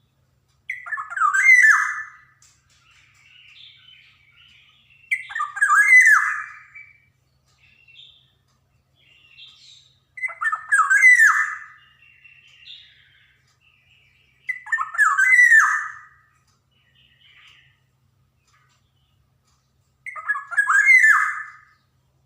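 Black-naped oriole calling: five loud calls about five seconds apart, each lasting about a second and a half, with quieter short notes in between.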